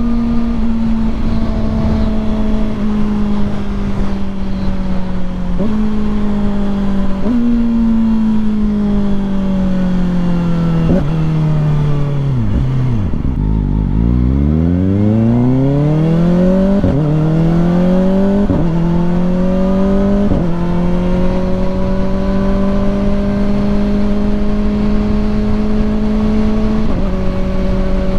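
Kawasaki ZX-4RR's inline-four engine on the road. It slows with two auto-blipped downshifts, each a quick jump up in revs, and the revs sink to their lowest point about halfway. Then it pulls away, rising in pitch through three quick-shifter upshifts in fast succession, settles into a steady cruise, and makes one more upshift near the end.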